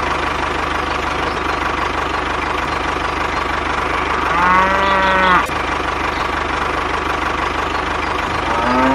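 A steady engine running throughout, with a cow mooing once for about a second a little before halfway through, and a second moo beginning near the end.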